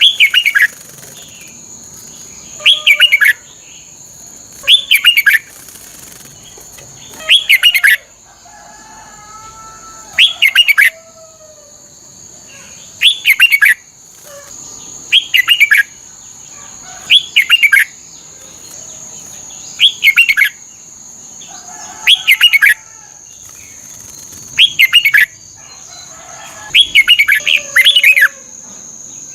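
Red-whiskered bulbul singing: short phrases of quick, falling, warbling notes, each under a second, repeated about every two to three seconds, around a dozen times. A steady high-pitched whine runs underneath.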